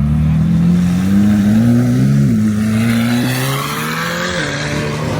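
A car engine accelerating away, its pitch rising for about two seconds, dipping briefly at a gear change, then rising again before dropping back near the end.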